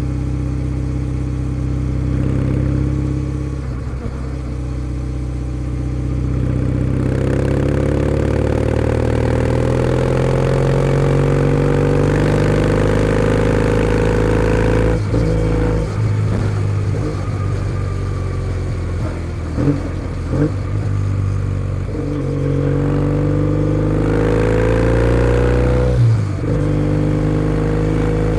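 Kawasaki W650's air-cooled parallel twin running through a POSH W1 full exhaust while riding. The engine pulls up through the revs twice, and each climb ends in a sudden drop in pitch as it changes gear, with a stretch of uneven throttle and short rev blips in between.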